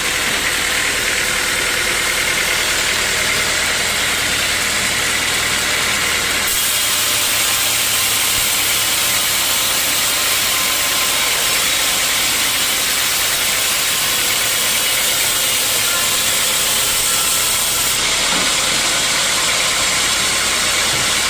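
Sawmill machinery running steadily, a loud even noise with a low hum underneath. The high hiss grows stronger about six seconds in and eases again near the end.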